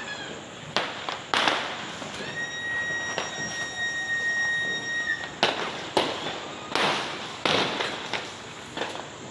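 Fireworks and firecrackers going off all around, a string of sharp bangs with echoing tails at irregular intervals. A high, steady whistle holds for about three seconds in the first half.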